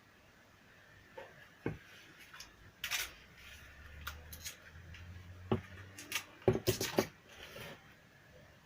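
Light clicks, taps and clatter of the hard parts of a disassembled JBL Charge portable speaker being handled, with a quick cluster of sharper clicks near the end.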